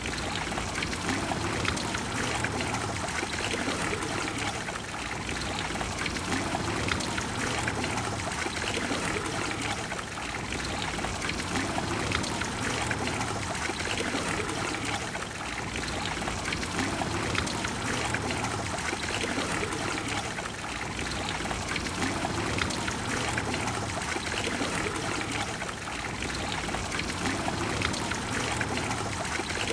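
Water of the Trevi Fountain flowing, a steady rushing wash with gentle swells every few seconds.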